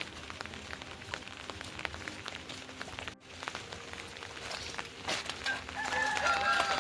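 Rain falling, with many individual drops ticking sharply. About five and a half seconds in, a long, slightly falling voice or animal call starts and carries on.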